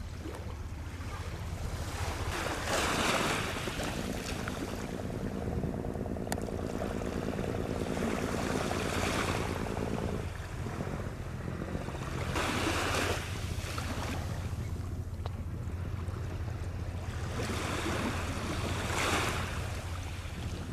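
Boat engine running with a steady low hum, while waves splash and swell about four times and wind hits the microphone.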